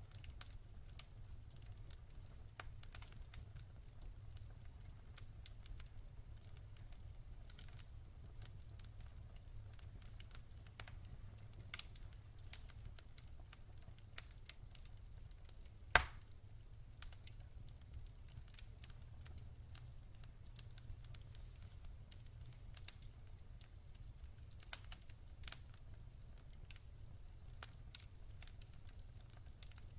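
Wood campfire crackling, with scattered small pops and one sharp loud pop about halfway through, over a low steady rumble.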